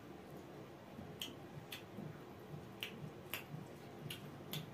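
Faint open-mouthed chewing of chicken curry and rice, with sharp wet lip smacks that come roughly in pairs, about six in all.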